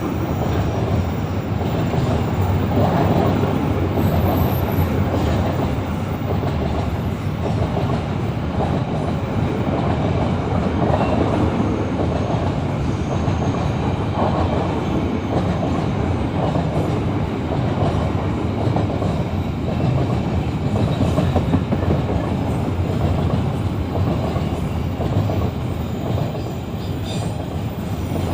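Train running on the rails: a loud, steady rumble of wheels and running gear with clickety-clack over the rail joints.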